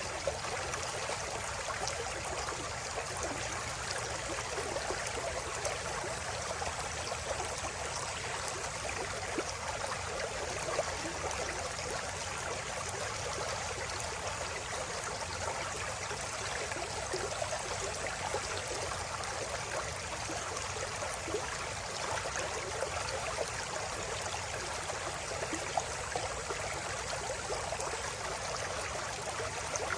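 River water flowing: a steady babbling rush with small splashes flickering through it.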